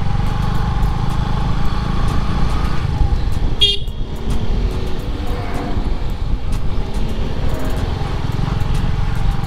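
Road noise from a moving motorcycle: steady wind rumble on the microphone and engine running, with a brief horn toot a little past the middle.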